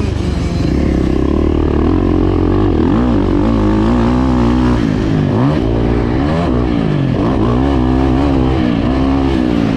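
Dirt bike engine revving up and down, its pitch rising and falling over and over as the throttle is opened and closed.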